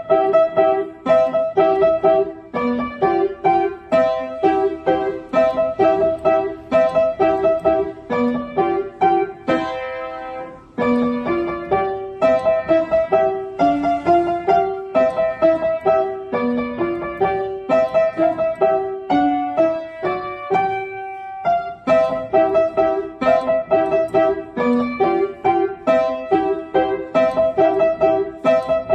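Piano playing a fast, lively melody of short, quickly repeated notes, with brief pauses about ten seconds in and again about twenty seconds in.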